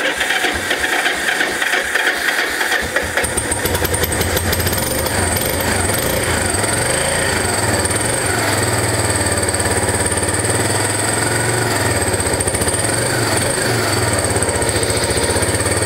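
Yamaha SR250's air-cooled single-cylinder four-stroke engine cold-starting without the choke: it fires suddenly, runs ragged for a couple of seconds, then settles into a steady idle about three seconds in.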